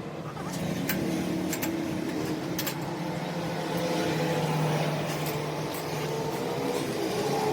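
A steady, even machine hum, an engine or motor running at constant speed, with a few faint clicks.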